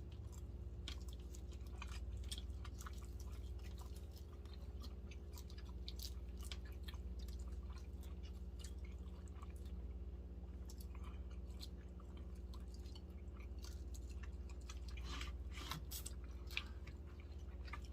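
Close-up chewing and mouth sounds of people eating smoked chicken: many faint, irregular wet clicks and smacks. A low steady hum runs underneath.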